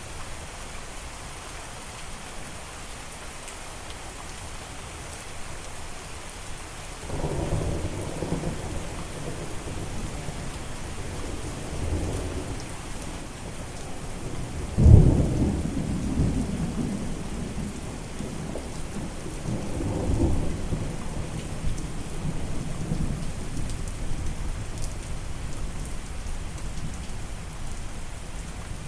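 Steady rain falling with rolls of thunder: a rumble starts about a quarter of the way in, a sharp close crack of thunder comes about halfway through and is the loudest moment, and another roll follows later.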